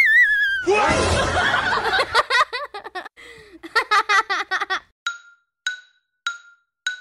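Comedy sound effects laid over the clip: a short wavering whistle-like tone, then a burst of laughter with chuckles and snickers for about four seconds. After that comes a sharp wood-block-like tick repeating about every 0.6 s.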